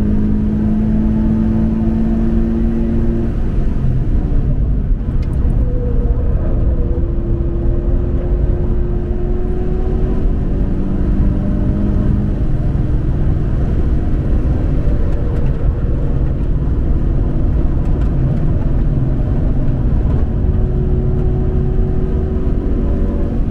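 A Toyota 86's flat-four boxer engine on track, pulling hard with its note rising slowly for several seconds at a time. The note breaks off between these pulls, over a heavy, steady rumble of wind and road noise.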